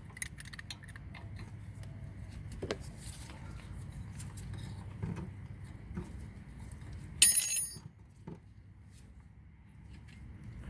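Faint clicks and taps of hand tools working on a rear brake caliper as its bleeder valve is cracked open, with one brief, sharp, high-pitched metallic sound about seven seconds in.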